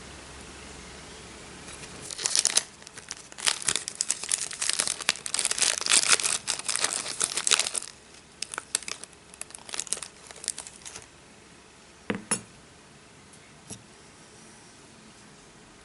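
Thin plastic crinkling and tearing in a dense crackle, starting about two seconds in and dying away after about eleven seconds, followed by a single knock.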